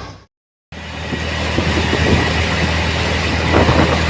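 Auto rickshaw engine running with a steady low hum and some rattling. The sound drops out completely for a moment near the start.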